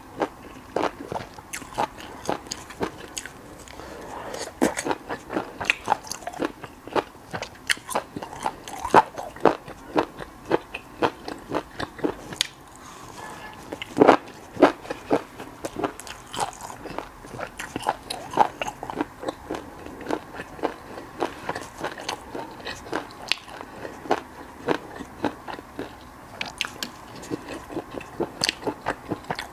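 Close-miked biting and chewing of deep-fried skewered snacks, a dense run of short crisp clicks, with a few louder bites about nine and fourteen seconds in.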